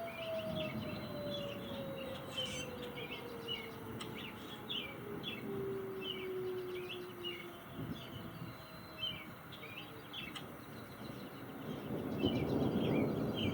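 Small birds chirping in quick, repeated short notes throughout. A faint low tone slides slowly down in pitch over the first several seconds, and a rushing noise swells near the end.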